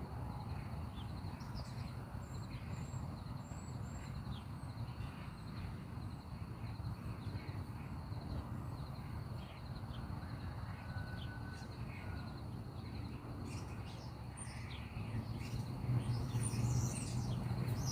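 Outdoor ambience: a steady low background hiss with faint, scattered bird chirps.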